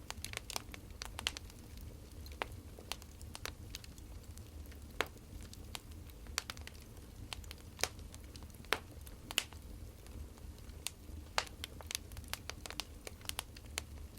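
Wood fire crackling, with irregular sharp snaps over a steady low rumble.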